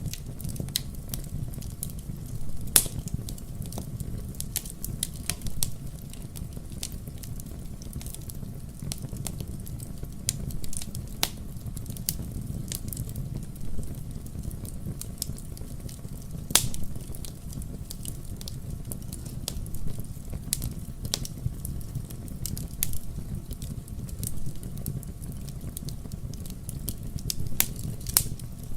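Wood fire burning in a fireplace: a steady low rumble of flames with frequent crackles and occasional louder pops.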